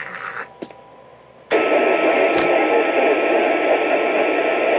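Two-way radio receiver hissing: a loud, steady band of static cuts in abruptly about a second and a half in, as an incoming signal opens the squelch, with a couple of faint clicks.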